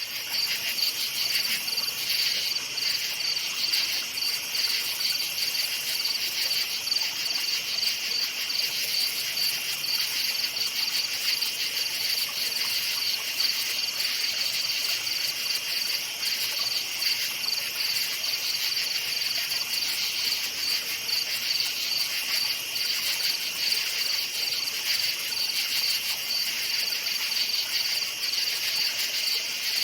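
Night chorus of crickets chirping steadily, a high-pitched rapidly pulsing trill with other insects calling beneath it.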